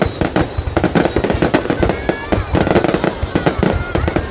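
Fireworks going off in a dense barrage: many sharp bangs and crackles in quick succession, overlapping one another.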